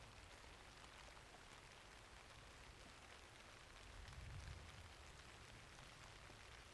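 Faint, steady rainfall with scattered drop ticks, and a low rumble that swells briefly about four seconds in.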